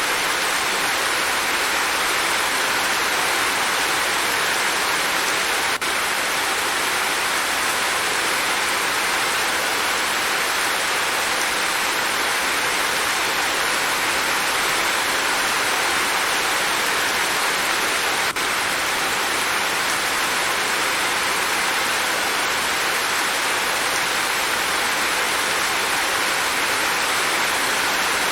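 Steady rain falling, an even hiss with no change in strength, broken only by two tiny brief dropouts about six and eighteen seconds in.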